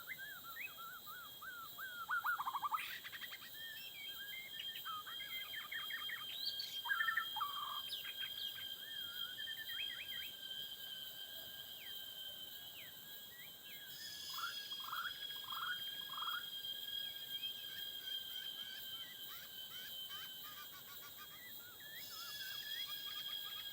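White-rumped shamas singing in quick, varied whistled phrases and chirps, over a steady high-pitched drone of forest insects.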